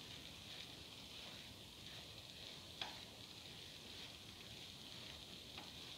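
Ground coconut paste sizzling faintly in a hot pan as a spatula stirs it, with a single sharp tap of the spatula about three seconds in.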